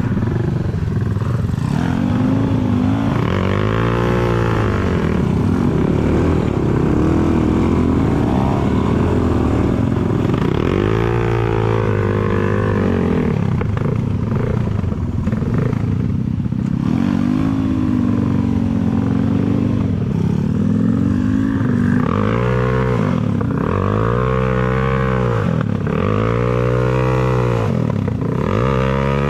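Enduro dirt bike engine revving up and down over and over as it is ridden, with a run of short, quick blips of throttle near the end.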